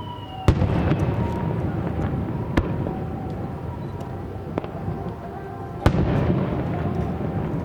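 Aerial fireworks shells bursting. A falling whistle ends in a loud bang about half a second in, with a second loud bang near the end and two smaller reports between. Crackling and rumbling follow each big burst.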